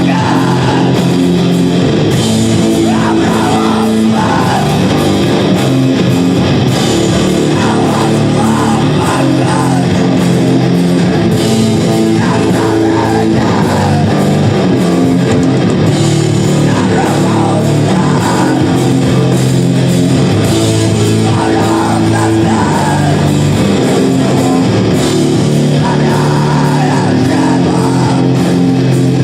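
Live heavy rock band playing loud and dense: distorted electric guitars over a drum kit, running on without a break.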